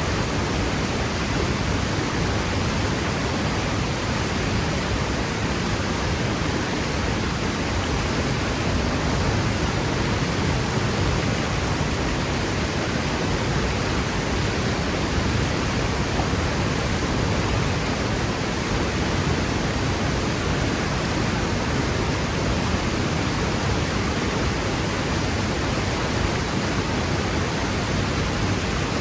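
Waterfall: water pouring and crashing into a pool, a steady rushing roar with no changes.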